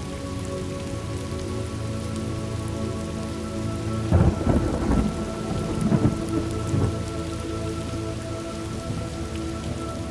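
Steady rain with a rumble of thunder: a louder roll starts about four seconds in, and two shorter swells follow around six and seven seconds.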